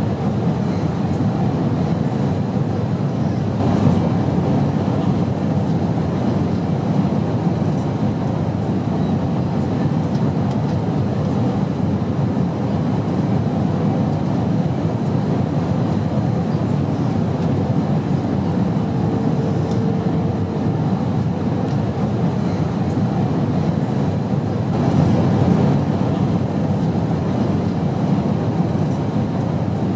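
Airplane engine noise: a steady, deep, even rumble and hiss that swells slightly a couple of times, with a faint brief tone about two-thirds of the way through.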